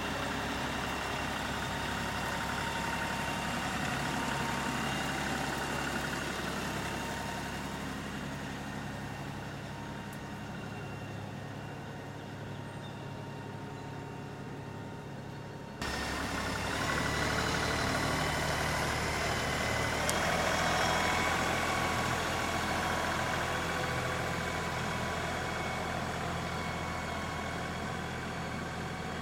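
LS compact tractor's diesel engine running steadily. The sound changes abruptly and gets louder about halfway through.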